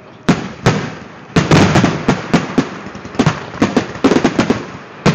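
Fireworks going off: two separate bangs in the first second, then a dense run of rapid crackling pops and bangs.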